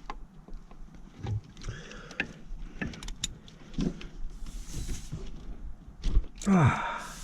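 Scattered clicks and metal clinks of a socket and extension working a spark plug loose on a 2005 Ford Ranger's 4.0 V6, with a louder knock about six seconds in.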